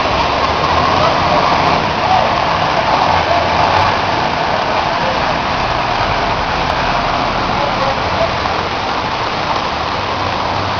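Steady rush of heavy rain and running floodwater, with faint voices in the background.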